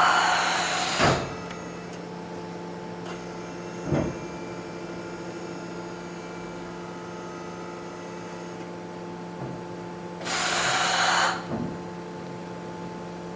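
DMG Mori NHX 5000 horizontal machining center during a pallet change. A steady machine hum runs throughout, with two hissing bursts about a second long, one at the start and one near the end, and a few short clunks between.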